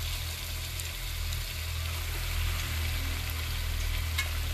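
Raw chicken pieces sizzling as they fry in hot oil and spice masala in a pot on a gas cooker: a steady sizzle with a low hum underneath.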